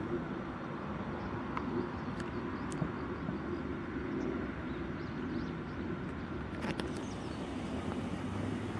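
Steady rumble of a vehicle, with a few faint clicks.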